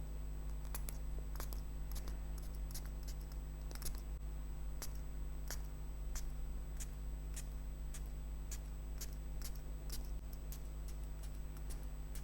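Computer keyboard keys clicking in an irregular run of sharp clicks, about two a second, over a steady low hum.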